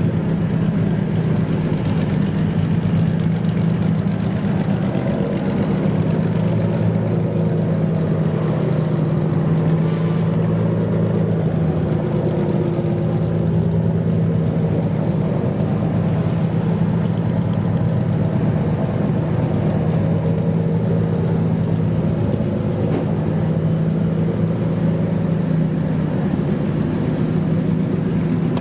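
A customised old car's engine idling with a steady, even exhaust note.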